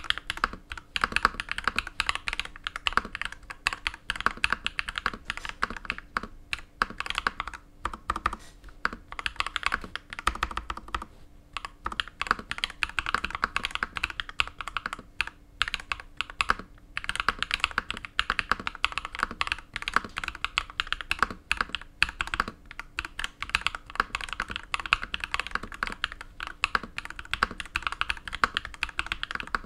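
Fast, continuous typing on a DA Meca 6 Plus mechanical keyboard with lubed KTT Pink Peach linear switches, foam- and silicone-dampened, gasket-mounted, with BOW keycaps. Steady runs of keystrokes with a few short pauses.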